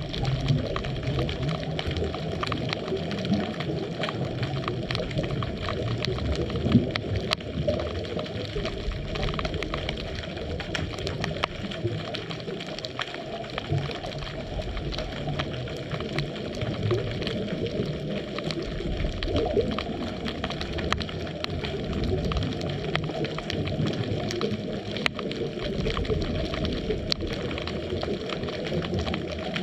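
Underwater sound heard through a camera's waterproof housing: a continuous fine crackle of clicks over a low, uneven rumble that swells and fades every few seconds.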